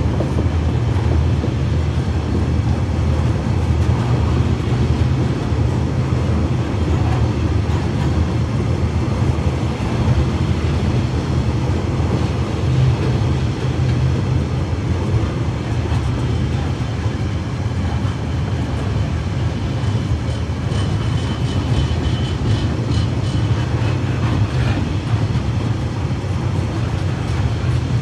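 Loaded log wagons of a freight train rolling past, a steady low rumble of steel wheels on the rails. A faint high steady tone and a few light clicks come in about two-thirds of the way through.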